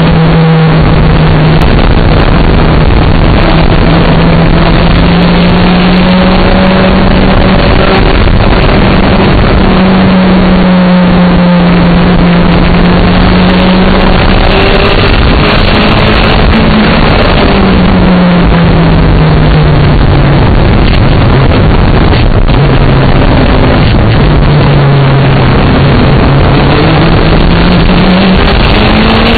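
Rally car engine running hard at speed under a loud, continuous rush of wind and road noise. The engine note holds steady for long stretches, then sinks and climbs slowly a few times.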